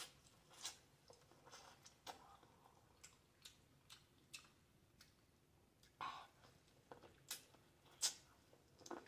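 Faint mouth sounds of a person eating corn on the cob: scattered clicks and smacks of biting and chewing at an irregular pace, the loudest about eight seconds in.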